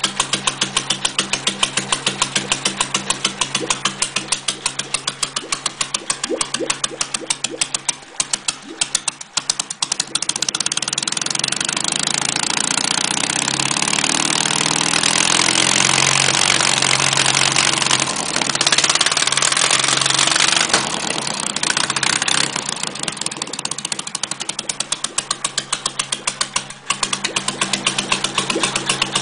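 Ural M72 side-valve flat-twin motorcycle engine running: it idles with an even beat of firing pulses, dips briefly about a third of the way in, then is revved and held at higher speed for about ten seconds before dropping back to idle.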